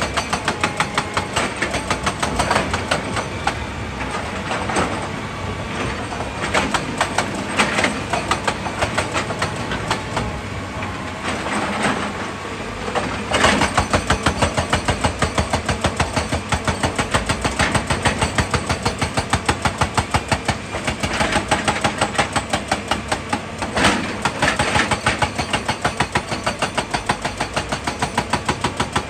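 Excavator diesel engine running steadily with an even, rhythmic pulsing a few times a second, with a couple of louder knocks about midway and again near the end.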